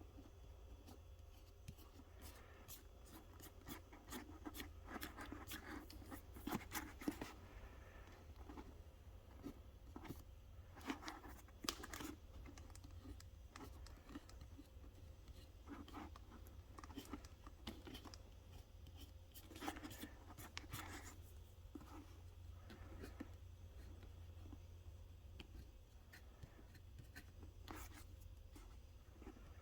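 Faint, irregular scratching, rubbing and small clicks of close handling work, over a steady low hum.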